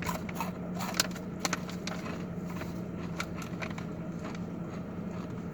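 Close-up chewing and crunching of crunchy chickpea veggie-pop snacks: irregular crisp crackles and clicks, over a steady low hum.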